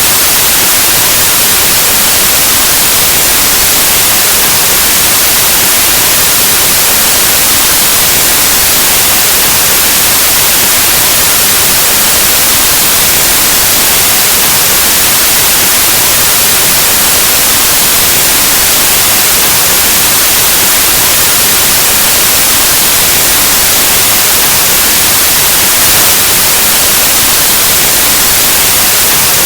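Loud, steady white noise: an even hiss like the static of an analog television or radio, brightest in the treble.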